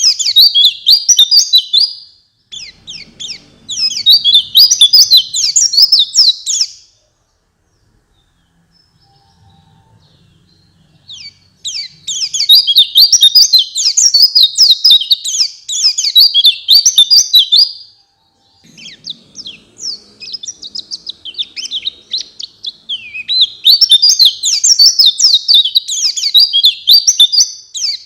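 White-eye (pleci) song: rapid, high twittering phrases lasting a few seconds each, with a quiet pause of about four seconds midway.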